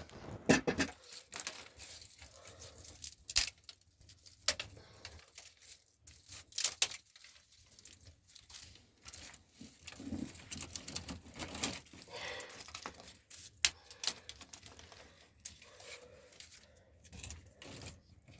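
Irregular sharp knocks and clicks, with rustling and scraping in between: things being handled and set down by hand.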